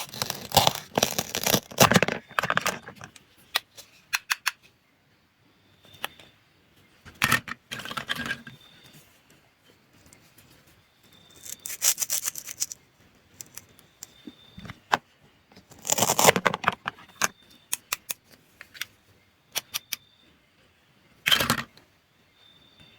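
Cutting and scraping in short bursts, with sharp clicks and rattles between long pauses.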